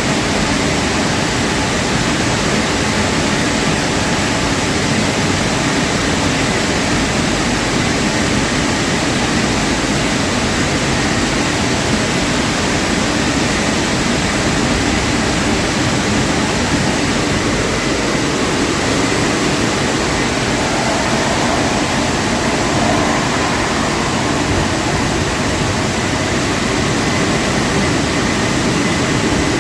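Automatic car wash in operation: a steady, loud rushing noise.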